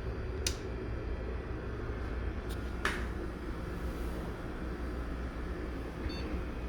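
DNA Engine thermal cycler running, a steady low hum with fan noise, broken by a few sharp clicks about half a second, two and a half and three seconds in.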